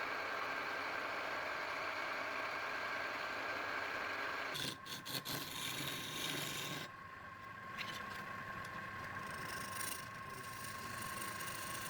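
Small electric power-tool motor whirring steadily. About four and a half seconds in there are a few clicks and the tone drops to a lower pitch, and it runs on with scraping and rattling.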